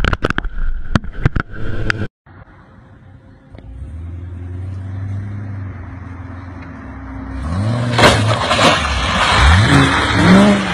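A run of sharp knocks and clatter that stops at a sudden cut. Then a Corvette's V8 runs low and steady before revving hard as the car launches, its pitch climbing twice over a loud rushing of spinning tyres and wind.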